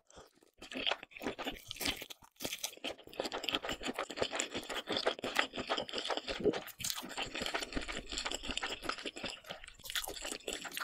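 Close-miked chewing of imitation crab stick and saucy noodles: a dense run of crackly mouth clicks, starting about half a second in.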